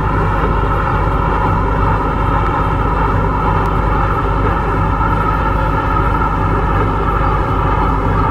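MTR Kwun Tong line C-Train electric metro train running steadily between stations: a continuous mix of wheel-on-rail noise and an even traction hum, with no change in pitch.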